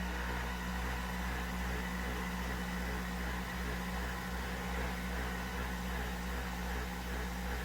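A steady low mechanical hum with a light hiss, unchanging throughout, like a small appliance running.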